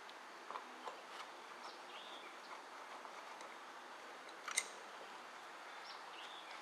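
Faint clicks and light knocks of a small red plastic lamp lens being handled, with one sharper click about four and a half seconds in, over a low hiss. A few faint short chirps sound at times.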